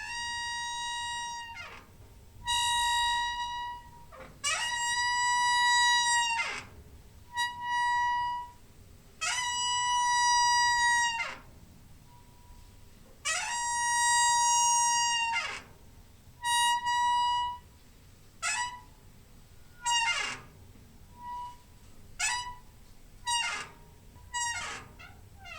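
Door hinge squeaking over and over, each squeak a steady high whine that bends in pitch as it starts and stops. The first several are long drawn-out creaks of about two seconds; from about two-thirds of the way in they turn into short, quicker squeaks.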